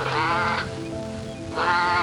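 Two bleats from a sheep or goat, each quavering, the first about half a second long at the start and the second beginning near the end, over background music with held notes.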